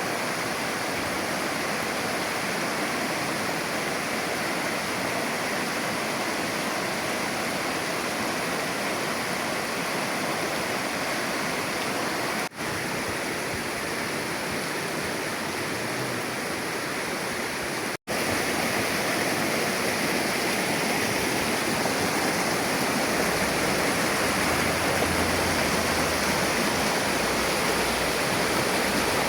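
Shallow river water flowing in a steady rush. It cuts out for an instant twice, about twelve and eighteen seconds in, and is slightly louder after the second break.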